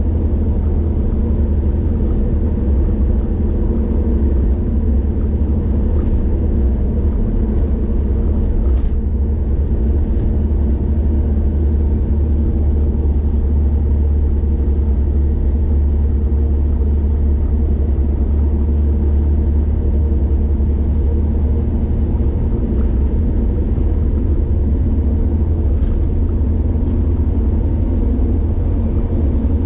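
A car driving along a highway: a steady rumble of engine and road noise that holds level throughout, with a few faint ticks.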